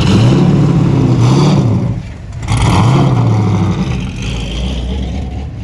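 A car engine revving up and dropping back, twice, with a brief lull between the revs.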